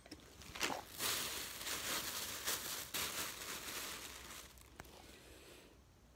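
Plastic packaging crinkling and rustling as it is handled, with a few light clicks; it dies away about a second before the end.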